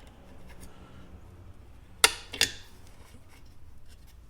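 Two sharp metal clicks about two seconds in, less than half a second apart, from small steel parts and tools being handled during reassembly of a portable bandsaw's blade-tensioning mechanism.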